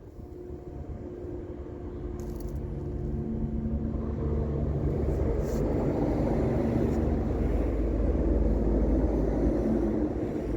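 A vehicle engine running steadily with a low rumble, growing gradually louder over the first half.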